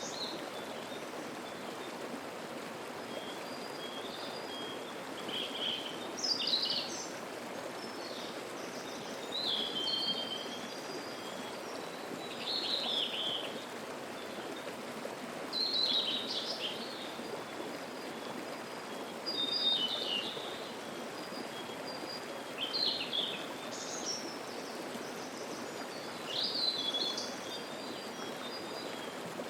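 Mountain stream murmuring steadily, with a songbird singing short, quick phrases every three to four seconds above it.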